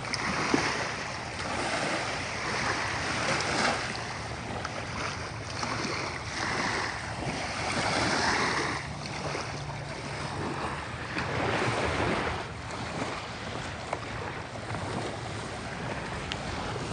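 Sea waves washing onto the beach, the surf swelling and easing every few seconds, with wind gusting on the microphone.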